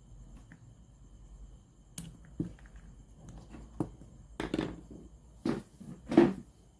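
Irregular clicks and knocks of handling, about six short strokes spread over the last few seconds, the loudest near the end.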